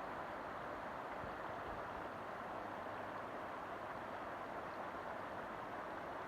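River water flowing: a steady, even rushing sound that does not change.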